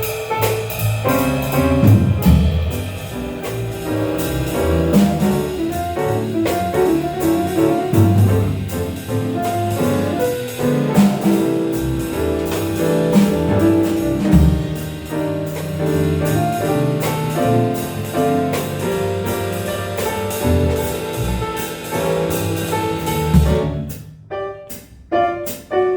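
Jazz trio of piano, bass and drum kit playing an up-tempo swing tune, the cymbals keeping steady time under piano lines and walking bass. In the last couple of seconds the music breaks into a few separate accented hits with gaps between them, the closing figure of the tune.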